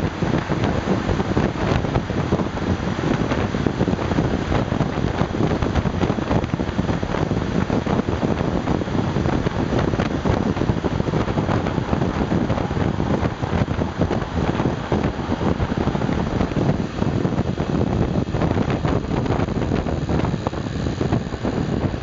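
Honda Super Cub 110's small air-cooled single-cylinder engine running steadily while riding, largely buried under heavy wind buffeting on the microphone.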